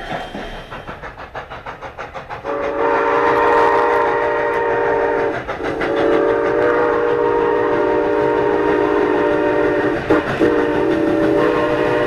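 Chime steam whistle of the 2-6-0 steam locomotive blowing a chord in long blasts for a road crossing: about three seconds, a short gap, about four seconds, then another blast near the end. Before the whistle, the train's running makes a rapid rhythmic beat.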